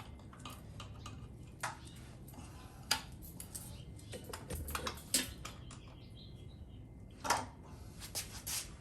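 Scattered metallic clicks and clanks from a wrench turning a Pontiac V8 over by hand with its spark plugs out, so the crank spins without compression; the sharpest knocks come about three, five and seven seconds in.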